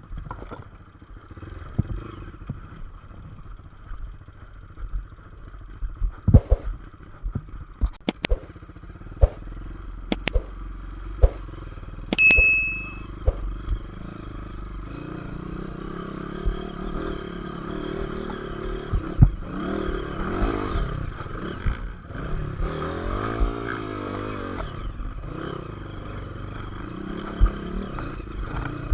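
Motorcycle engine running throughout, with a run of sharp knocks and clicks in the first half and a brief high beep about twelve seconds in. The engine grows louder and its pitch rises and falls from about halfway.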